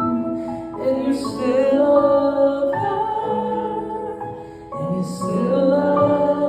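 A man singing a slow ballad live over sustained instrumental accompaniment, two long held phrases with vibrato, the second starting near the end.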